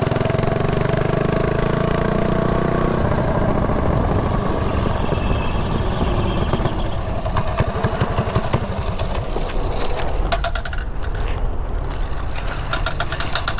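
Mini bike's small engine running as the bike rides along, steady for the first few seconds and then rougher and more uneven.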